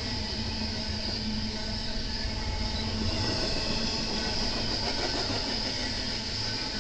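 BNSF intermodal train's cars rolling past, a steady rumble of steel wheels on rail.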